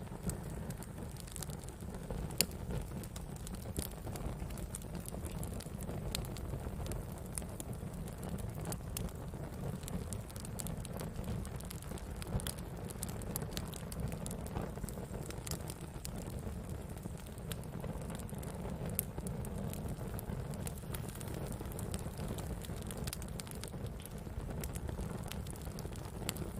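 Wood fire burning steadily, with a low rumble of flames and many irregular sharp crackles and pops from the burning wood.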